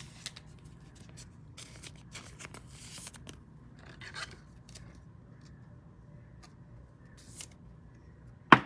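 Paper trading cards being slid and flicked against one another as a pack is sorted through by hand, in short scattered swishes, with one much louder sharp sound near the end.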